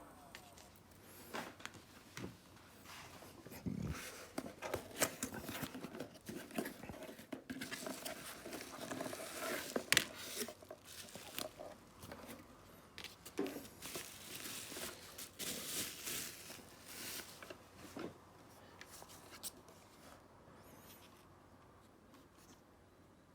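Hands handling small objects: irregular rustling and crinkling with scattered light clicks, dying down after about twenty seconds.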